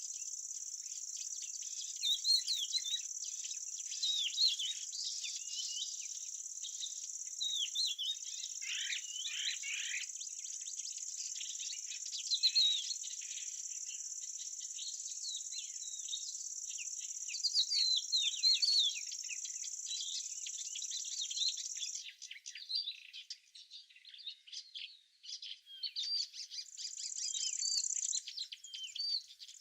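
A steady high insect trill with small birds chirping and twittering over it. The trill stops about two-thirds of the way through, leaving only the birds, and comes back briefly near the end.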